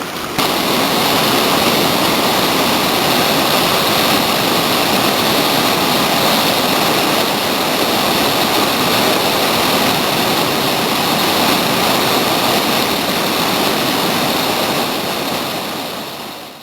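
Whitewater of a creek rushing as a loud, steady wash of noise that fades out near the end.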